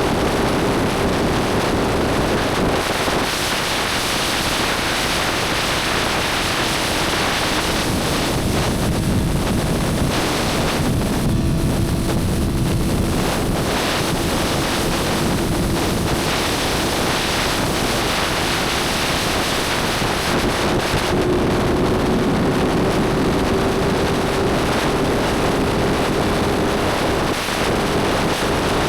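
Motorcycle cruising at speed: heavy wind rushing over the microphone nearly covers a steady engine hum whose pitch dips and later climbs slowly.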